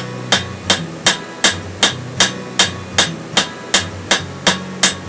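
Blacksmith's hand hammer striking the end of a hot bar of coil-spring steel stood upright on the anvil, upsetting it. The blows are sharp and steady, a little under three a second.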